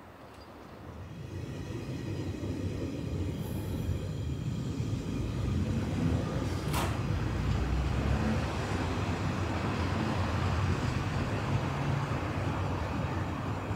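Electric train approaching along the track, its running noise growing louder over the first two seconds and then holding as a steady rumble. A single sharp click comes about seven seconds in.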